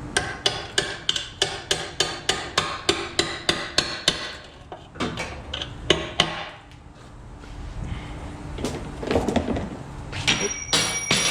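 Hammer blows on metal, a steady run of about three strikes a second for some four seconds, then a few more, knocking out the last rivet that holds the LS1 oil pan gasket. A metallic clatter with a brief ringing near the end.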